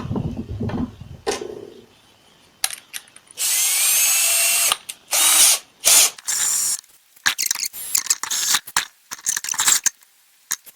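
Power drill with a step drill bit cutting a hole in the lid of a waterproof electrical box, with rattling and clicking in the first second or two. The drill runs in short bursts: one longer run with a rising whine about three seconds in, then shorter and shorter pulses.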